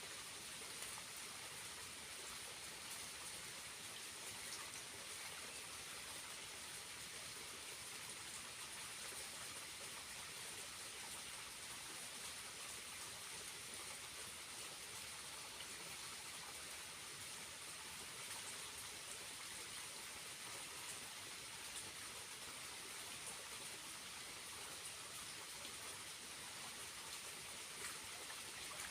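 Small waterfall running, its water falling and splashing in a steady, even rush.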